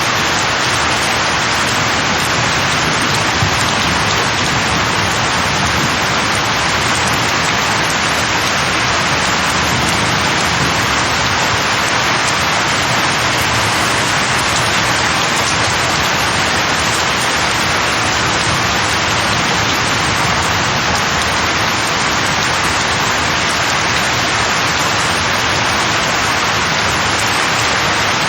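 Steady rain falling on leaves, an even hiss with no breaks.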